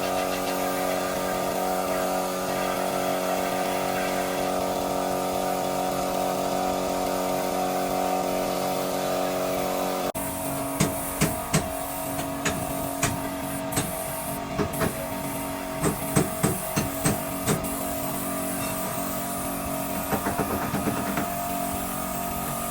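A steady mechanical hum; about ten seconds in the sound changes and a run of sharp knocks, about a dozen, comes over a continuing hum, with a few more knocks near the end.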